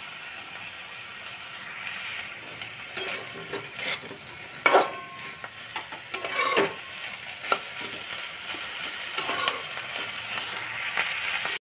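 Potatoes and spring onion stalks sizzling in oil in an uncovered kadai, a metal spatula stirring them and scraping against the pan every second or two. The sound cuts off abruptly just before the end.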